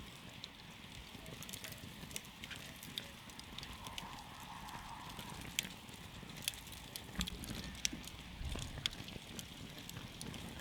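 Wood campfire crackling: scattered sharp pops and snaps, irregular, over a low rumble from the burning fire.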